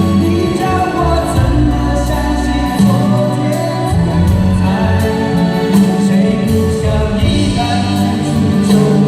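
Live concert music: a band playing a continuous passage with sustained notes over a steady bass, with no sung words.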